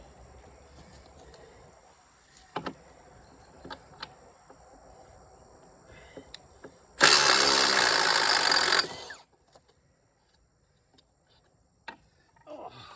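A motor runs loudly for about two seconds and then stops, amid scattered light metallic clinks and knocks.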